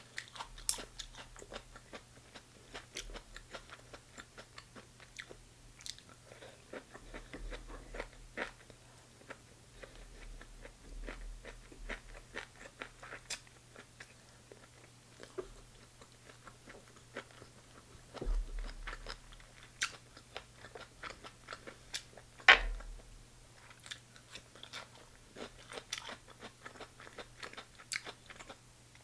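Close-miked chewing and biting of stir-fried chicken gizzards with onions and bell peppers: a steady run of small wet clicks and crunches, with a few louder sharp clicks, the loudest a little past two-thirds of the way through. A faint steady hum sits underneath.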